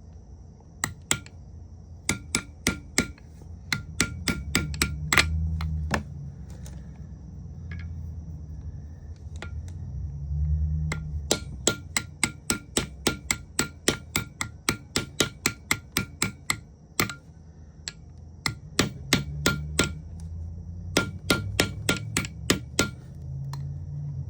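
Hammer tapping a new rear main seal further into a Subaru EJ engine block to seat it flush, in runs of quick light strikes, about three to four a second, with short pauses between runs.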